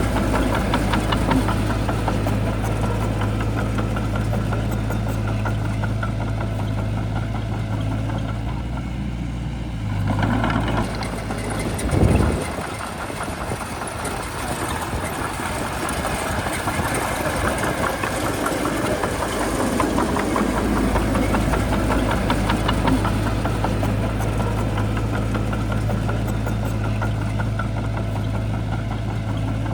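Shantui bulldozer's diesel engine running steadily with a low hum. About twelve seconds in there is a brief loud surge; after it the low steady note drops away for several seconds and comes back.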